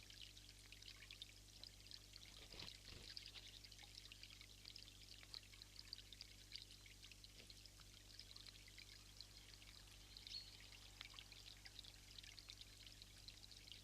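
Faint, steady trickle of running water, a dense fine patter with a low steady hum underneath.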